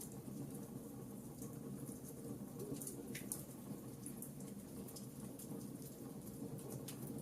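Wood fire crackling in a fireplace: scattered sharp pops and snaps over a steady low background of the burning fire.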